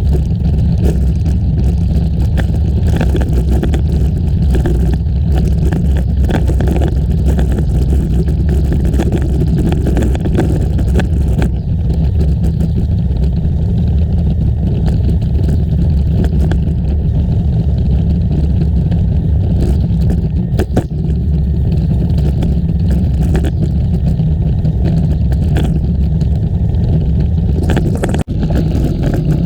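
Steady rumbling wind noise on the microphone of a camera carried on a moving bicycle, strongest in the low end, with a brief dip near the end.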